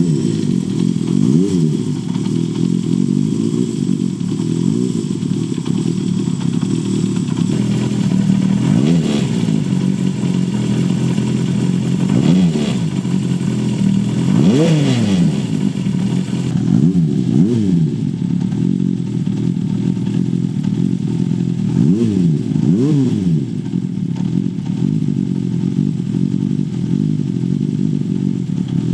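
Honda CB400Four's air-cooled inline-four running through a Yoshimura short exhaust while being ridden. The engine pitch climbs and drops sharply several times as it is revved and eased off through the gears.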